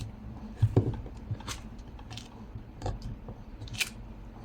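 A few light knocks and clicks from hands working a rubber stamp against paper on a craft table, re-stamping an image whose middle had not printed.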